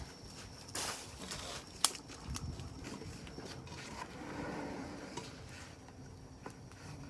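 Wood campfire crackling, with scattered small pops and one sharp, loud snap about two seconds in.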